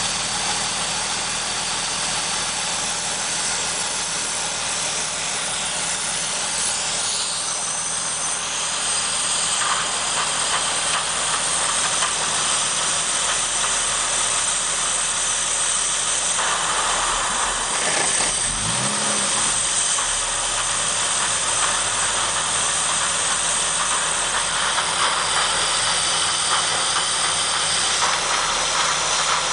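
2005 Acura TL's V6 engine idling steadily under a loud, even hiss of air being drawn into the intake while it is treated with Seafoam. About two-thirds of the way through the sound briefly wavers and dips.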